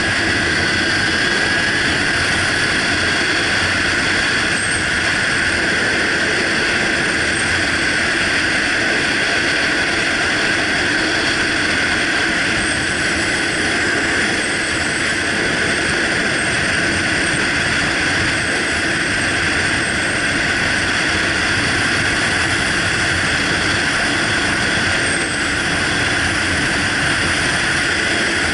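Steady rush of wind and engine noise from a motorcycle being ridden, with wind on the microphone, holding level without rises or falls.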